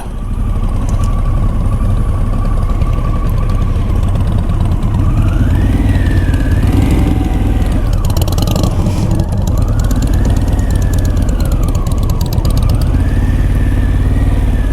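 Motorcycle engine running steadily at low revs with wind noise. From about five seconds in, an emergency-vehicle siren wails over it, rising and falling slowly about three times.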